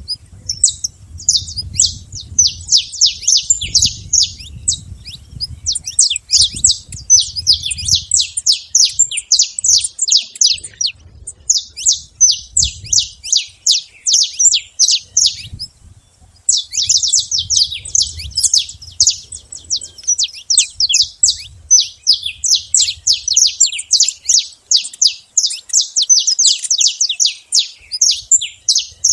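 Saffron finch singing: long runs of rapid, high chirping notes, broken by a few short pauses.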